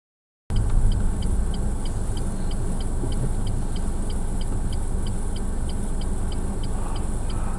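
Steady engine and road rumble of a moving car, heard from inside the car, starting abruptly about half a second in. An electronic beep repeats about three times a second over it.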